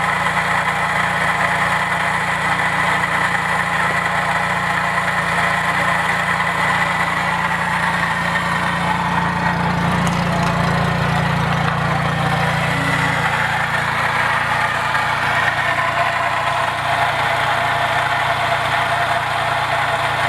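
The four-stroke engine of a 2003 Arctic Cat Bearcat Widetrack snowmobile idling steadily.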